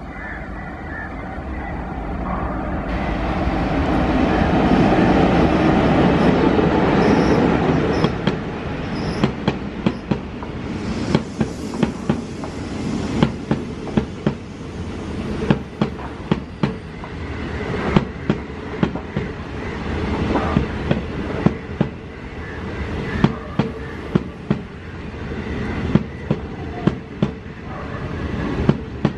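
Locomotive-hauled passenger train passing close by: the rumble builds and peaks about five to seven seconds in as the locomotive goes past. Then the coaches roll by with a steady clickety-clack of wheels over rail joints, sharp clacks recurring about every second, often in pairs.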